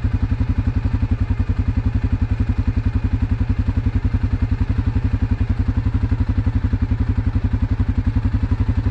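ATV engine idling steadily with an even, rapid pulse and no revving.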